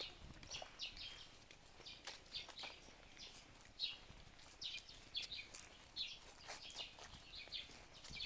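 Faint bird chirping: many short, high calls repeated irregularly, several a second.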